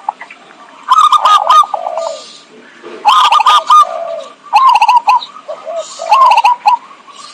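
Zebra dove (perkutut) song used as a lure call: four phrases of quick, rippling coos, each about a second long, with short gaps between them.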